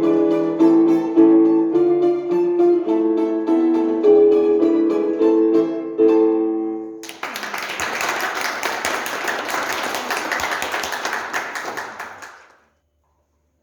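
Instrumental music played live, a melody of plucked or struck notes, ends about halfway through. Audience applause follows straight after, then cuts off abruptly near the end.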